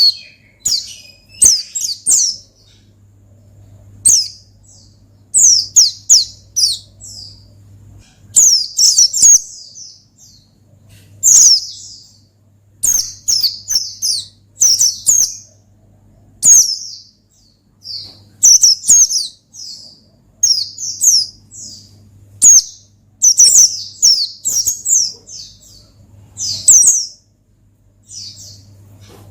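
Pleci (white-eye) singing 'gacor ngalas': quick, high chirping phrases in clusters about every one to two seconds, with short pauses between them. A faint low hum runs underneath.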